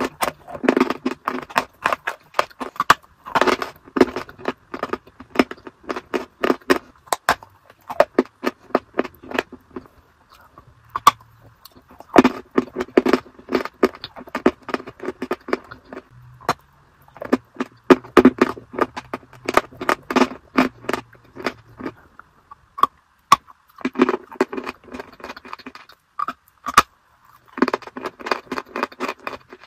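Close-miked chewing and crunching of a dry, crumbly white block, in bursts of rapid crackling crunches a few seconds long with short pauses between, and a longer pause about a third of the way through.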